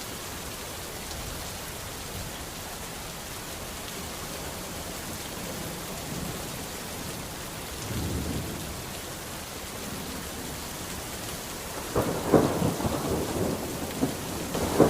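Steady rain with a low roll of thunder about eight seconds in, then a sharp thunderclap about twelve seconds in that rumbles on, with another crack near the end.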